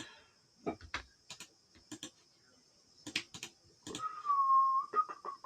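Computer keyboard and mouse clicks, scattered and irregular. About four seconds in, a chicken gives a drawn-out call that breaks into short clucks near the end, louder than the clicks.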